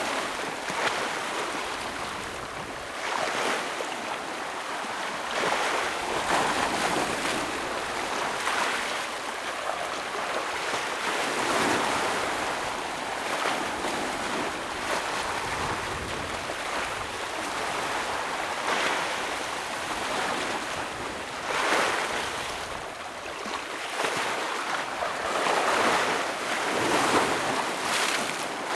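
Ocean waves breaking and washing against rocks, swelling and easing every few seconds over a constant wash of surf, with a little wind on the microphone.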